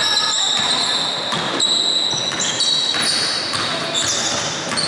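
Basketball being played in a gym: many short, high squeaks, typical of sneakers on a hardwood court, over a basketball bouncing and voices echoing in the hall.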